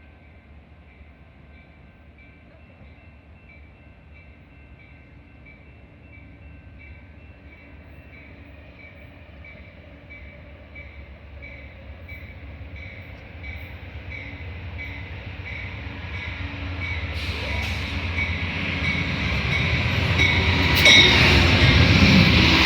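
A train approaching and growing steadily louder, its rumble and wheel noise filling in over the last few seconds as it arrives close by. Through the first part a short high tone repeats about twice a second.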